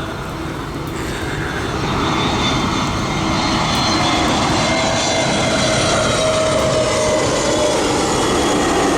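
Jet engines of a landing Airbus A320-214 (CFM56 turbofans) running, a steady roar that grows louder about two seconds in, with a faint whine slowly falling in pitch.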